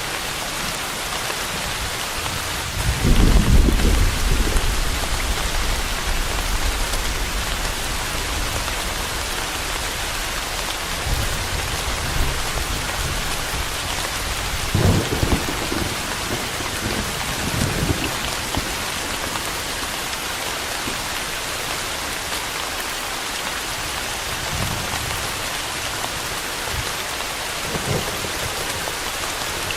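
Steady rain with low rolls of thunder: the loudest rumble comes about three seconds in, with fainter ones around the middle and near the end.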